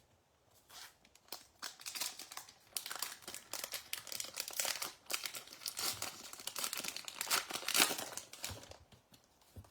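Baseball card pack wrapper crinkling as it is torn open and handled, a dense run of crackling from about a second in until near the end.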